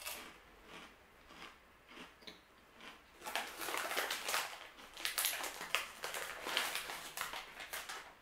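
Crunchy rice and corn chips being chewed close up: a few crisp crunches at first, then dense, irregular crunching from about three seconds in.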